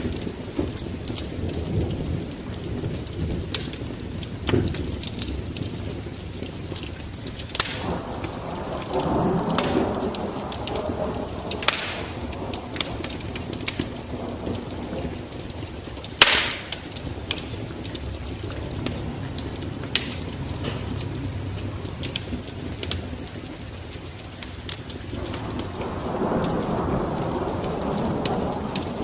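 Wood fire in a fireplace crackling, with irregular sharp pops, three of them louder, over a steady low rush that swells twice.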